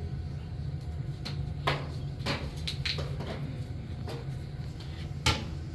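Irregular knocks and clacks, like objects being handled or set down, over a steady low hum. The sharpest knock comes near the end.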